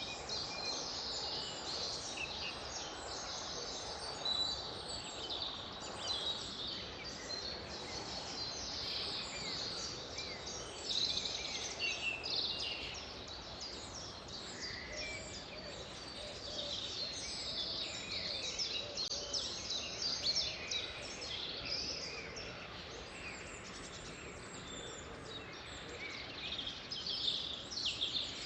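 A chorus of wild birds chirping and trilling, many calls overlapping with no pause, over a steady low hiss.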